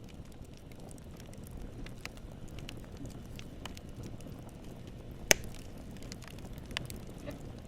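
Wood campfire crackling: a steady low rumble of flames with scattered small snaps of burning wood, and one sharp, loud pop a little past the middle.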